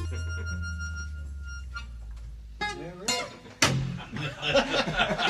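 A blues band's closing chord, harmonica on top over a low bass note, ringing out and fading. About three seconds in, voices and chuckling laughter start up.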